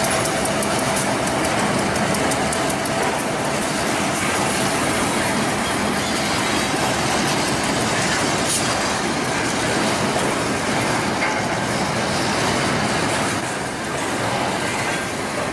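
Freight train of steel gondola cars rolling past behind two EMD switcher locomotives: a steady, loud rumble of wheels on rail.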